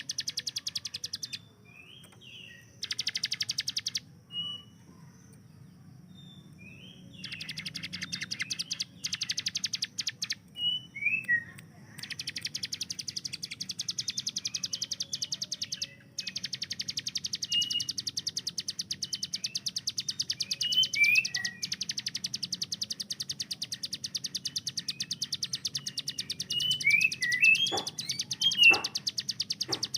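Ciblek gunung singing its rapid-fire 'tembakan' song: long bouts of very fast, machine-gun-like repeated notes, broken by short pauses and interspersed with brief downslurred chirps. A few sharp clicks near the end.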